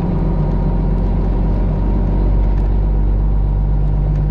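Straight-piped Detroit Diesel 12.7 engine of a loaded Freightliner Classic XL semi running under way with a deep, steady rumble. About halfway through, the engine note steps down a little in pitch.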